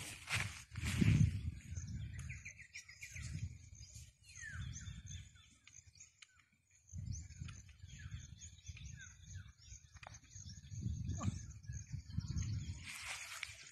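Small birds chirping and calling over and over, many short falling whistles, over an uneven low rumble from wind or handling on the microphone.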